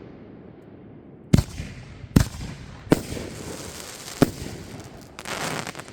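Fireworks going off: four sharp bangs spaced about a second apart, each with a short echoing tail, then a brief hissing burst near the end.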